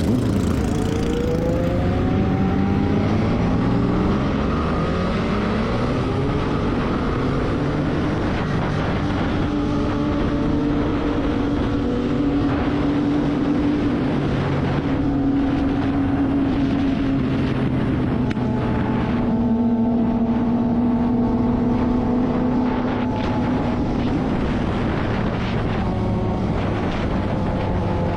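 Motorcycle engine running under way, its pitch rising and falling with speed changes in the first few seconds, then holding fairly steady over constant road and wind noise.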